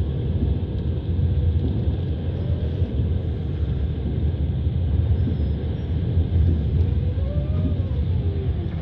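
Passenger train running along the track, a steady low rumble of wheels on rails and the moving carriage, heard from inside the carriage.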